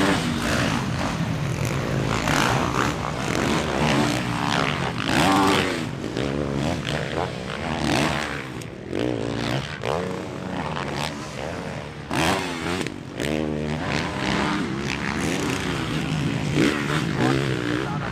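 Motocross bike engine being ridden hard, revving up and dropping back again and again, its pitch rising and falling every second or two.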